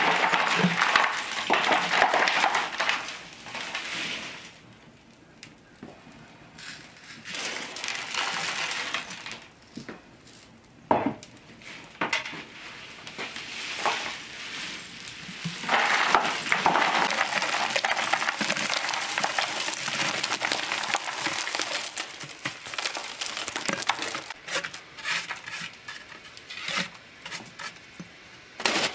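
Kitchen work: utensils clinking and scraping against pots and dishes in irregular bouts, with sharp knocks and short pauses between them.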